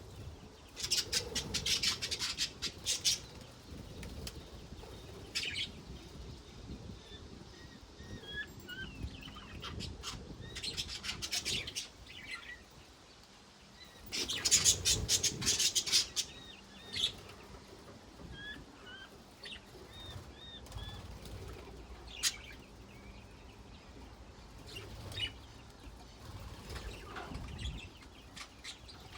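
Budgerigars chattering, with loud scratchy bursts of warbling about a second in, near the middle and just past halfway, and short high chirps in between.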